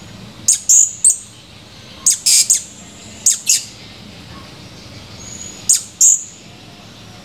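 Blue-crowned hanging parrot (serindit) calling in full voice: shrill, high-pitched chirps in quick groups of two or three, four groups spread over several seconds.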